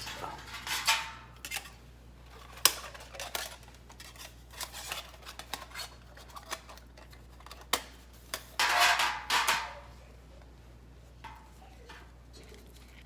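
Thin titanium panels of a Vargo hexagon wood stove clinking and clattering as it is handled and set up, with sharp metallic clicks and a longer run of clatter about nine seconds in.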